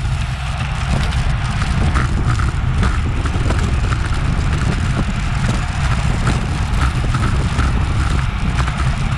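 Wind buffeting the microphone of a camera on a bicycle at racing speed, a steady low rumble, with scattered light clicks over it.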